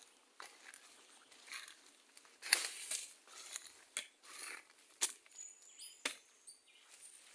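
Digging in soil to unearth a yam: irregular scraping and crunching strikes, the loudest about two and a half seconds in.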